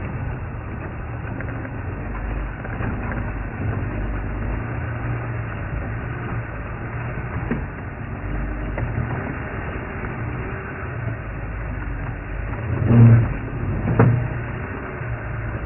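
Elephants feeding close by, snapping and cracking branches, with two louder snaps near the end, over a steady low hum.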